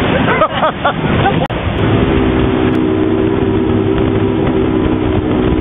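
A motorboat engine running at a steady speed, with a low rumble under an even hum. Voices are heard in the first second or so, then the engine note settles.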